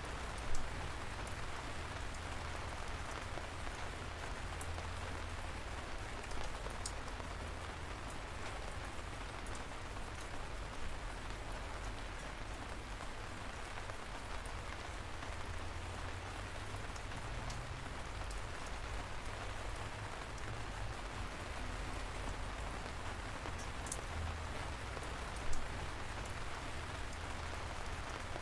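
Steady light rain falling, a continuous patter of drops with a low rumble underneath and occasional louder single drips, the most prominent near the start and near the end.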